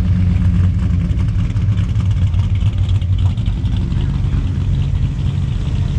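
Car engine running at low speed with a steady, deep exhaust rumble as it rolls by.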